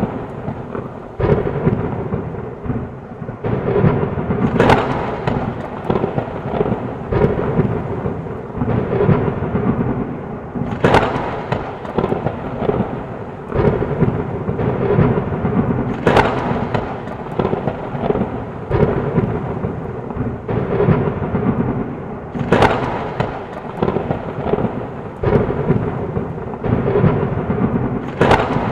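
Heavy rain with continuous rolling thunder, broken by five sharp thunder cracks about every five to six seconds.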